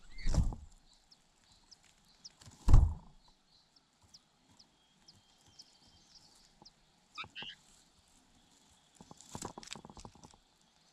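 Two heavy thuds about two seconds apart, then a short two-note bird chirp and a quick run of light knocks and rustles near the end, over faint high ticking in the background.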